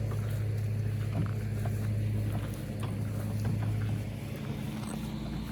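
Lawn mower engine running with a steady low hum, a little quieter about four seconds in.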